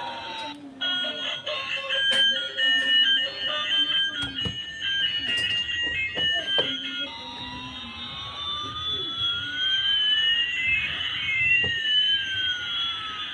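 A battery-powered toy's electronic sound chip plays a short melody of stepped beeping tones. Then come slow sliding siren-like tones, one rising and one falling, crossing about two-thirds of the way through. A few knocks from handling sound during the melody.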